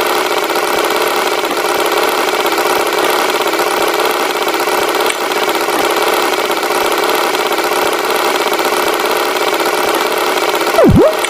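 Cartoon tractor engine sound effect running steadily, with a loud swooping dip and rise in pitch near the end.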